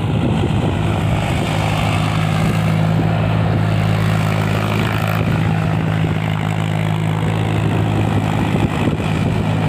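Mahindra 275 Bhoomiputra tractor's three-cylinder diesel engine running at a steady speed.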